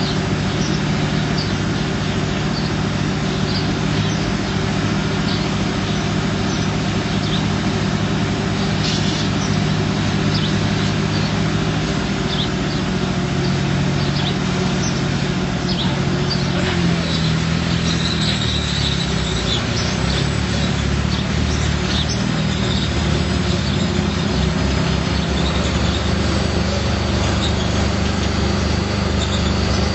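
Duvant diesel engine running steadily; about seventeen seconds in its note changes and the firing pulses become more distinct, as the engine speed shifts.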